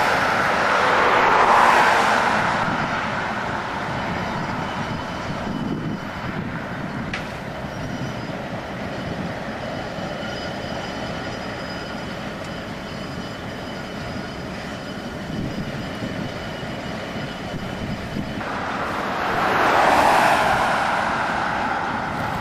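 Diesel locomotives, a Railink EMD SD18 and an MLW M420, rolling slowly past with a wrecking crane in tow, a steady rumble throughout. A car swells up and passes close by near the start, and another passes near the end, loudest of all.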